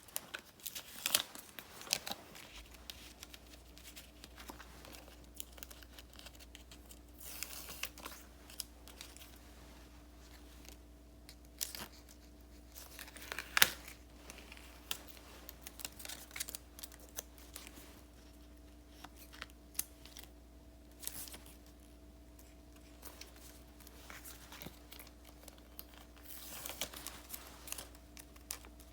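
Paper and sticker sheets handled at a desk for journal decorating: rustling, crinkling and tearing, with scattered light taps and one sharper click about halfway through. A faint steady hum comes in a couple of seconds in.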